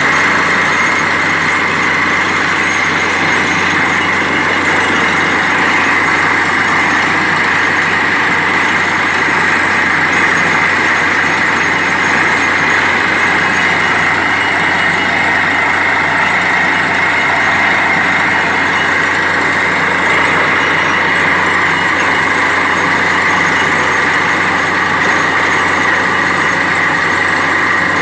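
Borewell drilling rig's engine running steadily and loudly, with a constant high tone over the engine noise.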